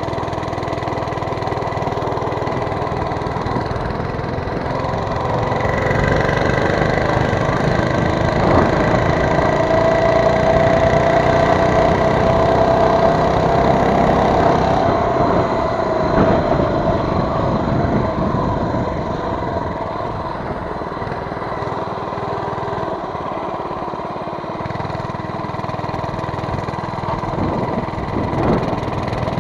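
Mini bike's small engine running as it is ridden. It revs up about six seconds in, holds higher revs for several seconds, then eases back to a lower, steady pace.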